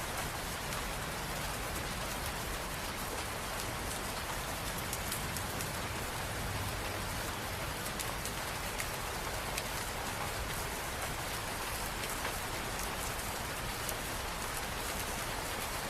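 Steady rain falling and pattering on surfaces, with many individual drops ticking through an even hiss.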